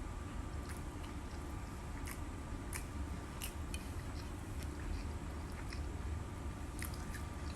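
A person chewing a mouthful of crispy fried chicken sandwich, with scattered small mouth clicks, over a low steady hum.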